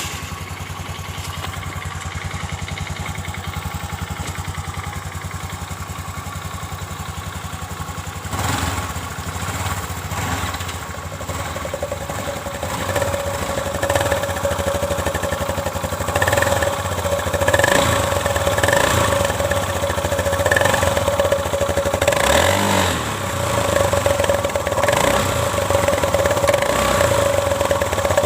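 Motorcycle engine running through a homemade exhaust made from a can: steady idle at first, then uneven rises and falls in engine speed from about eight seconds in.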